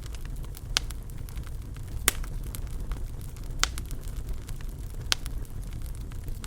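Wood fire burning in a fireplace: a steady low rumble of flames with irregular sharp crackles and pops, a few loud snaps standing out among many small ticks.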